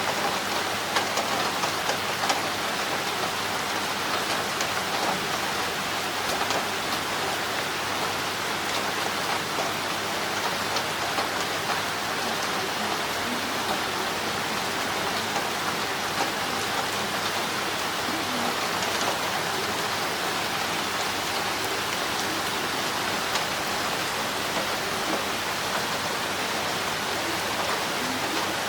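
Heavy rain falling steadily, with water pouring down a drainpipe and scattered drops tapping on hard surfaces.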